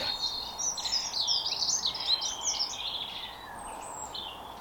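A songbird singing: a rapid run of varied high chirps and warbling notes lasting about three seconds, then a few fainter calls, over a soft outdoor hiss.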